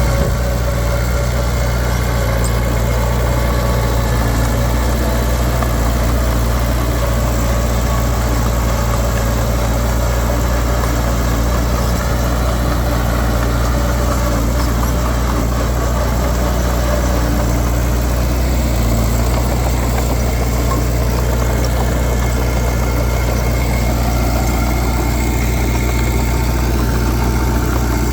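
Diesel engine of heavy earthmoving machinery running steadily at an even, low engine note, with no revving or change in load.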